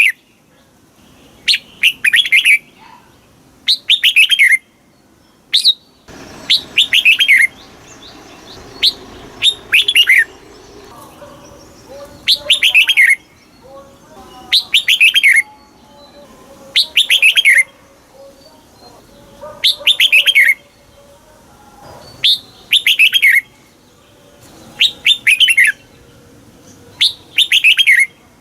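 Red-whiskered bulbul singing: short, bright chirping phrases of notes falling in pitch, repeated about every two seconds, about a dozen times.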